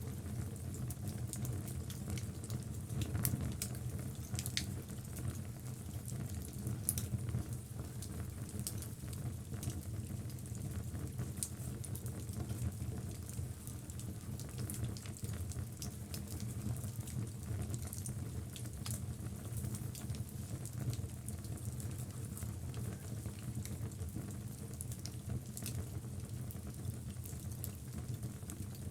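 Wood logs burning in a fireplace: a steady low rumble of the flames with a constant scatter of small crackles and pops, a couple of louder pops a few seconds in.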